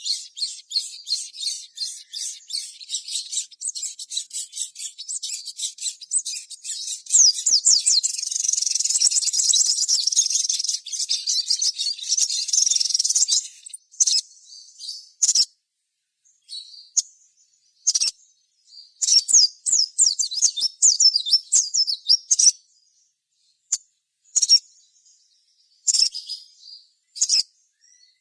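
Sogon (sogok ontong, little spiderhunter) singing: rapid, high-pitched chattering chirps, nearly unbroken for the first half, then coming in short bursts with pauses between.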